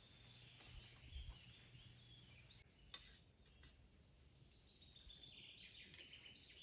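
Faint birds twittering with short chirps, joined by a few sharp clicks about halfway through.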